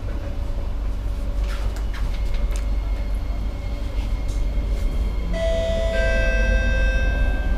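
Singapore MRT train running, a steady low rumble inside the carriage. About five seconds in, several steady high tones sound together and hold for a couple of seconds.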